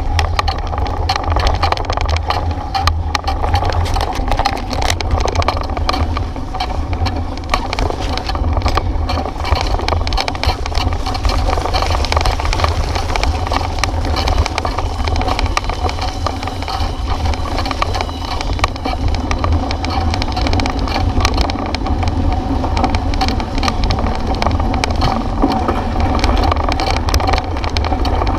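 Bicycle riding over a rough road: a continuous rumble with many small rattles and knocks from the bike shaking.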